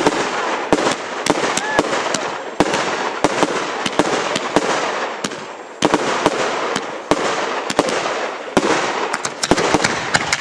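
Aerial fireworks going off: a rapid string of sharp bangs and crackling from bursting shells, with a strong bang about six seconds in.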